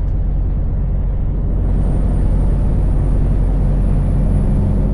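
Scania V8 diesel truck engine running under way, heard from inside the cab as a steady low drone. About two seconds in it gets slightly louder and a thin high whistle comes in, rising slightly.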